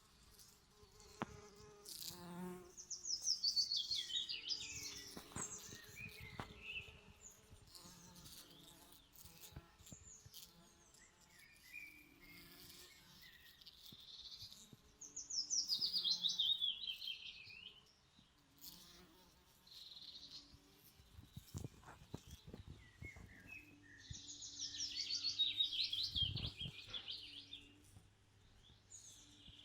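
A songbird singing three rapid trilled phrases, each sliding down in pitch over two or three seconds, over the low buzzing of bees working the flowers.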